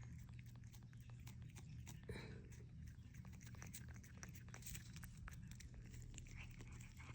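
Cat licking and chewing a lickable treat from a squeeze stick: a faint, quick run of small wet clicks and smacks.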